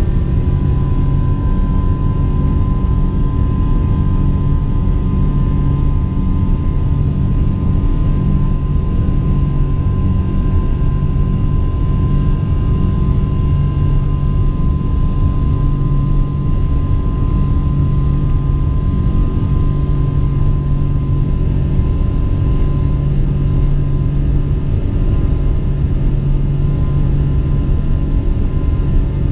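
Boeing 777-200's jet engines at takeoff thrust, heard inside the cabin: a loud, steady rumble with a steady high engine whine over it.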